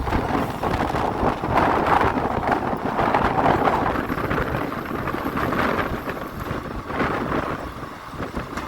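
Passenger train running, with wind buffeting the microphone in uneven swells.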